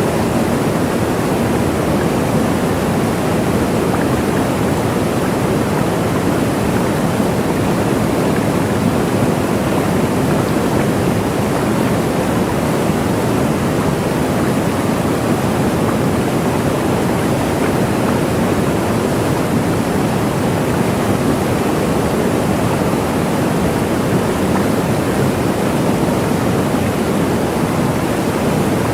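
Waterfall: water falling and rushing in a steady, unchanging roar, deepest and fullest in the low and middle range.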